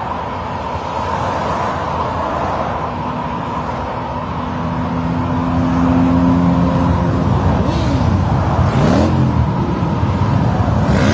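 A group of motorcycle engines running, growing louder about six seconds in, with engine notes rising and falling as bikes rev and pass, twice near the end.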